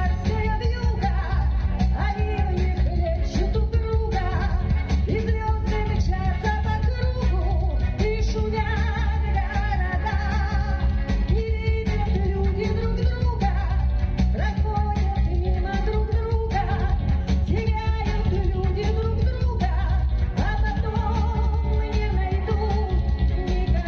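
A woman singing a pop song over a recorded backing track with a steady beat.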